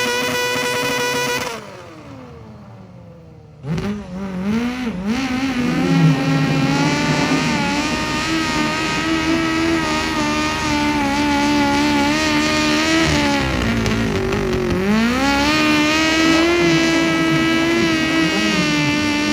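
Modified pulling tractor engine running flat out at high revs, its pitch held nearly steady with small wobbles and a brief dip about two-thirds of the way through, as during a pull. Early on an engine's pitch falls away and it goes quieter for about two seconds before the loud engine comes in abruptly.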